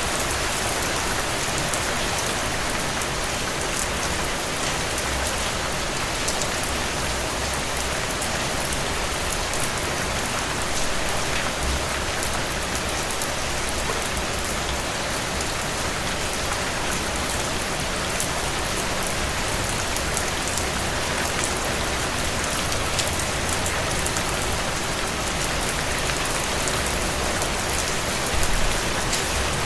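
Steady heavy rain falling on a surface, a dense even hiss full of fine drop patter. A brief low rumble swells near the end.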